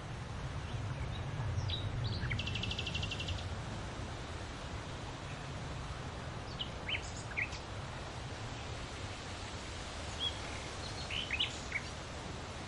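Birds chirping: scattered short chirps and a fast trill lasting about a second, starting about two seconds in, over a steady low rumble of background noise.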